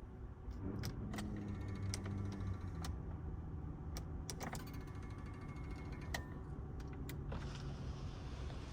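A series of sharp clicks, about ten spread irregularly, with short steady whirring tones between them over a low steady rumble: the sound of a car's electrically operated mechanisms and controls being worked.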